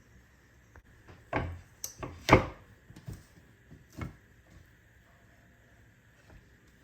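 A few separate knocks of objects being handled, the loudest about two seconds in, with fainter ones before and after it.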